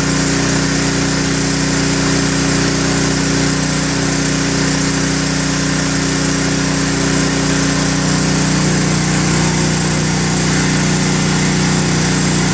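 Electric water pump used as an oil transfer pump, running with a steady hum while it draws waste oil up the suction pipe. Its hum shifts in the second half as it loads up with oil.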